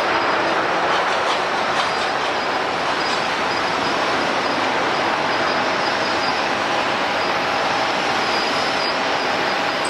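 Jet airliner engines running: a steady roar with a faint high whine held through it.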